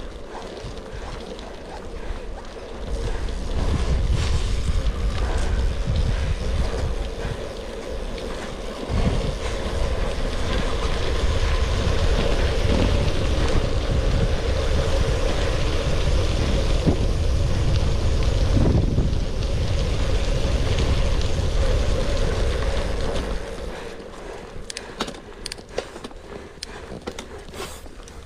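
Wind buffeting the microphone over the rumble of a gravel bike's tyres on an unpaved forest road, strong for most of the stretch and easing off near the end, where a run of sharp clicks and rattles comes through.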